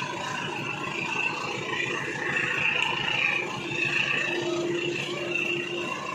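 A passenger train's running noise, a steady mechanical whir and rush, heard through heavy rain as the train approaches the station, with a steady hum coming in for about a second near the end.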